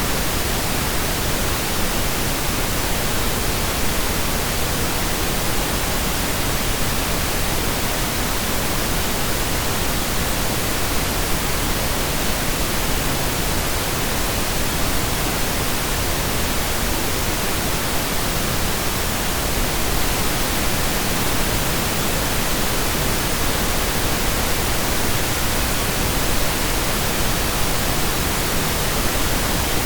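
Synthesized pink noise: a steady, even hiss with equal energy per octave, like steady rain or a waterfall heard from indoors, without change or events.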